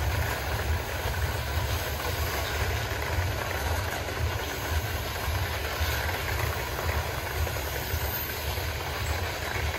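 Freight train rolling by: a steady low rumble of rail cars on the track, even throughout.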